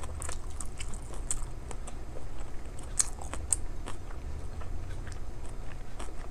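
A person chewing kimchi, with irregular wet clicks and smacks of the mouth and a low steady hum underneath.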